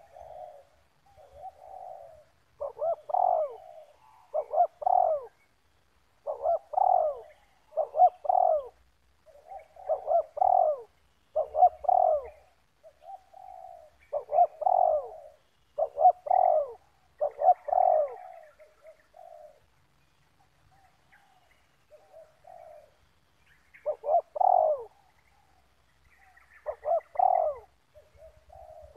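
Spotted doves cooing, repeating short phrases of two or three coos over and over. The calling drops away for about four seconds about two-thirds of the way through, then picks up again.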